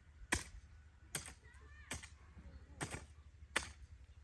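A hand tool striking hard in a steady rhythm, five blows about 0.8 seconds apart, like chopping or hoeing.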